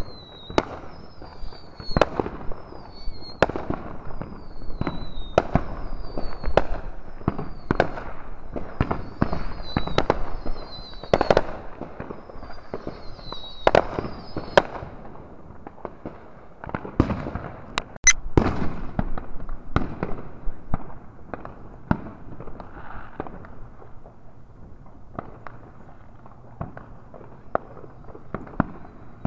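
Fireworks going off in an irregular, overlapping series of sharp bangs and cracks, each with a short echoing tail; the loudest comes a little past the middle. Short high whistles falling in pitch repeat through the first half.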